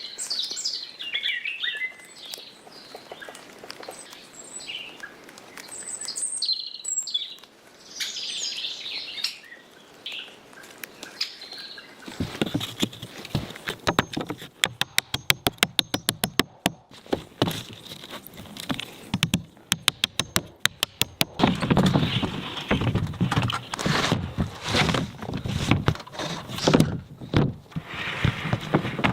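Birds chirp for the first several seconds. Then comes construction work on a cabin roof: two runs of rapid, evenly spaced knocks, followed by louder, irregular knocking and scraping.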